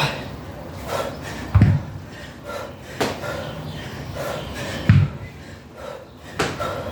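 Heavy thuds from a 22.5 kg dumbbell clean and jerk: two strong thumps about three seconds apart as the dumbbell and feet hit the floor, with lighter knocks between.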